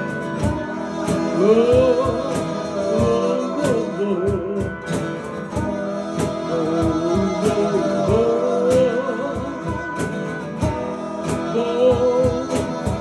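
Live band playing the outro of a song: a bending melody line over held guitar chords and a steady drum beat.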